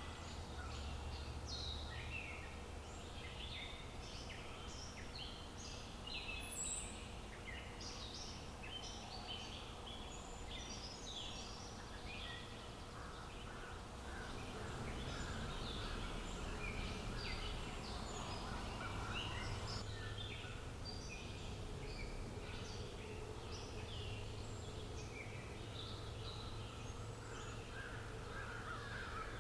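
Outdoor nature ambience of many small birds chirping and singing continuously over a low steady background rumble.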